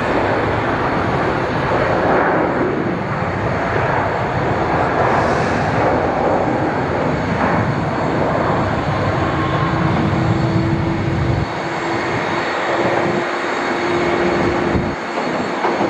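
Airliner engines, loud and steady. A steady hum joins in about halfway through.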